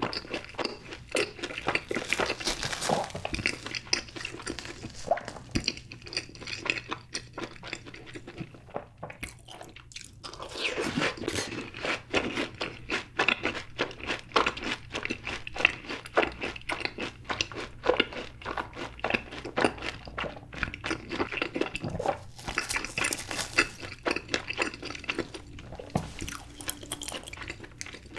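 Close-up mouth sounds of eating fried cheese balls: crisp crunching of the fried coating and steady chewing in quick, clicky strokes, with a short pause near the middle.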